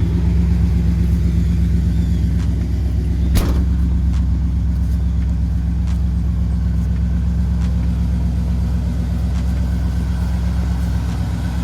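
A 1952 Chevrolet Styleline Deluxe's 350 V8 engine idling steadily, with one sharp click about three and a half seconds in.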